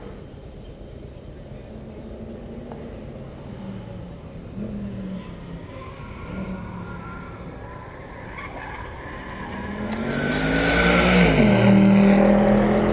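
Mercedes C63 AMG's 6.2-litre V8 heard faintly out on the track, then growing loud from about ten seconds in as the car comes towards the corner at speed. Its engine note climbs, then drops sharply with a shift, and stays loud to the end.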